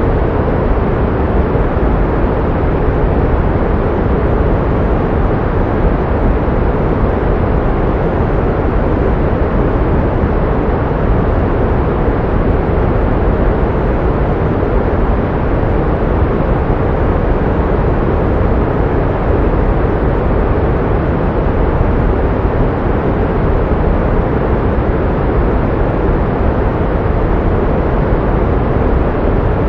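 Pink noise: a steady, unchanging hiss, fuller in the low end and thinning out toward the high end.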